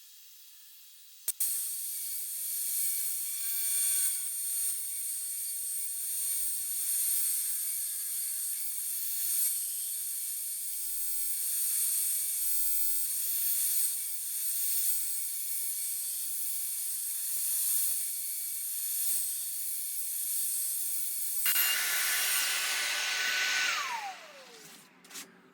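Shaper Origin handheld CNC router running as it cuts wood: a steady high whine with a thin high tone that starts suddenly about a second in. Near the end the sound fills out lower, then the spindle winds down with a falling tone and stops.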